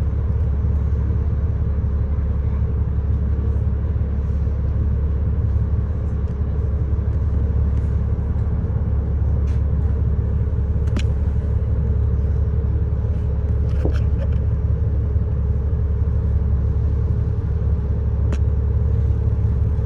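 Bus running steadily, heard from inside the cabin: a low engine and road rumble with a constant hum, and a few faint clicks.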